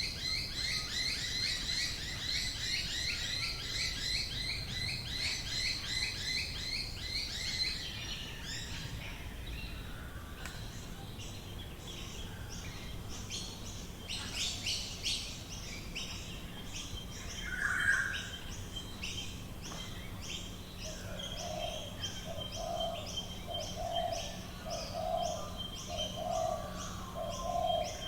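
Several birds calling in Australian bush: a fast, dense chattering of high notes for the first several seconds, then scattered calls and quick high ticks. A low cooing note starts repeating about once a second in the second half, typical of a pigeon or dove.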